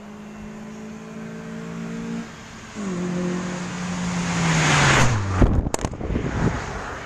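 Hyundai Tiburon with an aftermarket exhaust driving past: a steady exhaust note, a brief break just after 2 seconds, then the note comes back and falls in pitch as the car goes by, loudest at about 5 seconds with a rush of tyre and wind noise, then fading.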